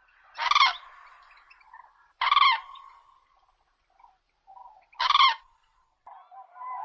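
Common crane calling: three loud, short trumpeting calls about two and a half seconds apart, with fainter calls between them and more calling starting near the end.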